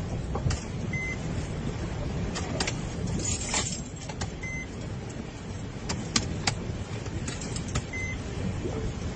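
A motor vehicle running, heard from inside, with a steady low rumble and scattered sharp taps. A short high beep sounds three times, about three and a half seconds apart.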